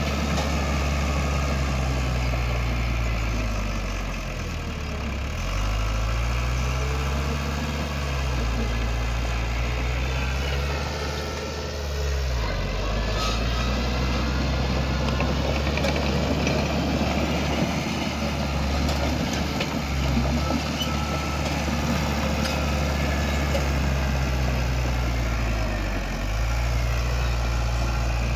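Heavy diesel engine of an earthmoving machine running, its pitch dipping and climbing back up three times as the engine speed falls and rises under load.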